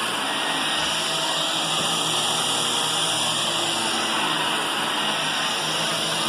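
Vacuum cleaner running steadily: an even rushing hiss over a motor hum, with no break or change in level.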